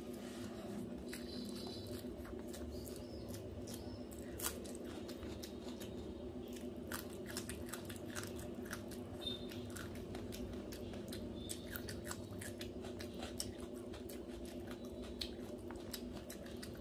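Close-up chewing and mouth clicks of a person eating hand-mixed pulao rice and chicken curry, with many short irregular smacks.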